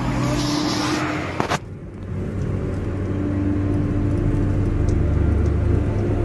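Road vehicle engines running, then an abrupt cut about a second and a half in to a steady low engine rumble.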